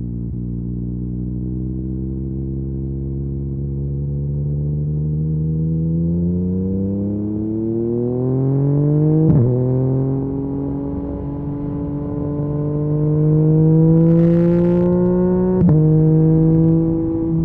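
Yamaha MT-09's inline three-cylinder engine through an Akrapovic carbon exhaust, pulling with its pitch rising slowly and steadily. It is broken twice by a short sharp crack where the pitch steps, about nine seconds in and again near the end.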